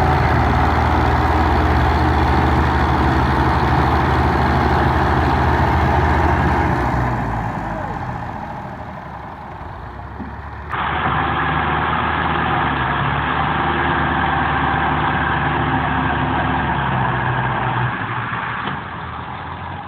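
Tractor engine running steadily. It fades after about seven seconds, then the sound cuts abruptly to another tractor engine running steadily.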